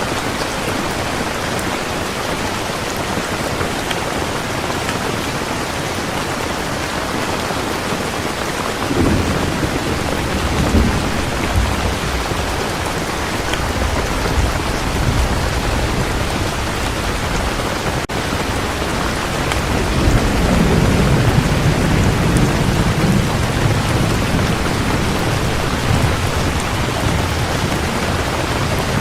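Heavy rain falling steadily, with low thunder rumbling in about a third of the way through and again, louder and longer, past the middle.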